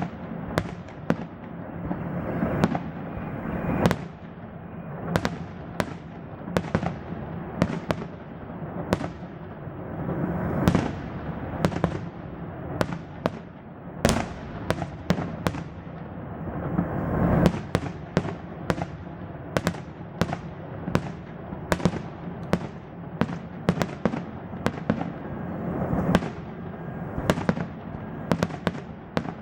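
Fireworks salute: aerial shells bursting in sharp, irregular bangs, often several a second, over a continuous rolling rumble of overlapping bursts.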